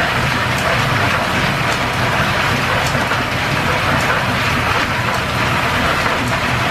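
Steam-powered workshop machinery running steadily: belt-driven shop machines giving a continuous low hum under an even hiss, with a few faint ticks.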